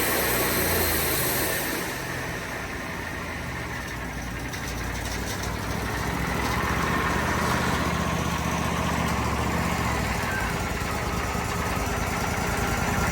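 Wood-Mizer portable sawmill's engine running steadily, with a high hiss that fades out about two seconds in; the engine grows louder again from about six seconds.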